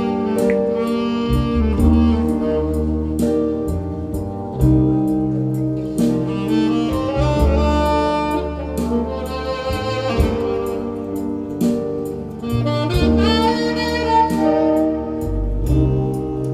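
Recorded song played back over a hi-fi loudspeaker system: an instrumental break with no singing, sustained melodic lines over bass and a steady light beat.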